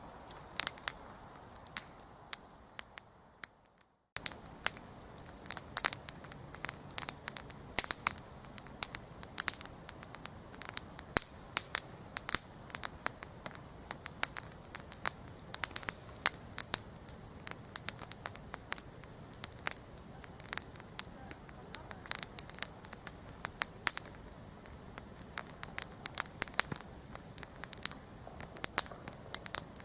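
Wood campfire crackling, with many sharp irregular pops and snaps over a soft steady hiss. About four seconds in, the fire sound fades to silence for a moment, then starts again abruptly.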